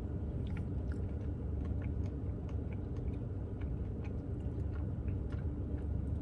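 Close-up chewing of a mouthful of Blizzard soft serve with truffle pieces: scattered small wet clicks and smacks, several a second, over a steady low hum.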